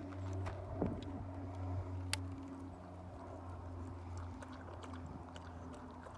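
A distant engine hum, steady and low, that fades about four seconds in, with a sharp click about two seconds in.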